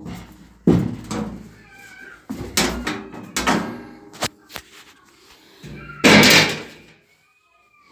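Back cover panel of a washing machine being worked loose and pulled off: a series of knocks and scrapes as the stuck panel is pried, with the loudest clatter about six seconds in as it comes free.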